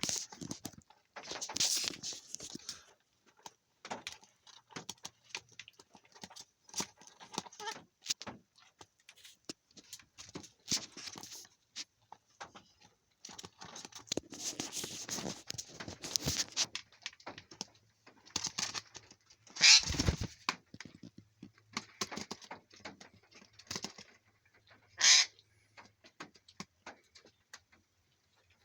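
A bird calling and squawking in short, irregular bursts, mixed with scattered clicks and rustling. The loudest sounds are a sharp call with a thump about twenty seconds in and a short shrill call about five seconds later.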